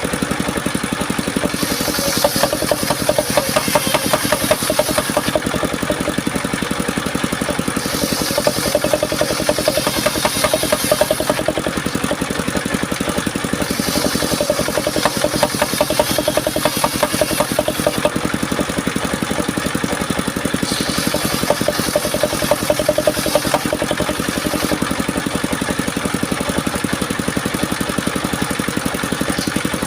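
Engine of a home-built mobile circular-saw sawmill running steadily, with a higher hissing layer that comes and goes every few seconds.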